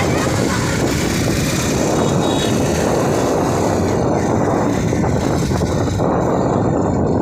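Steady, loud running noise of a moving vehicle, engine and road noise with no breaks or changes in level.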